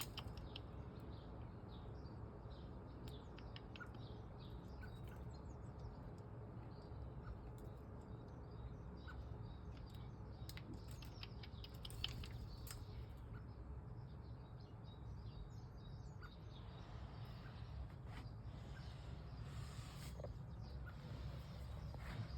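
Small garden birds chirping and calling faintly now and then, short high chirps scattered throughout, over a steady low background rumble.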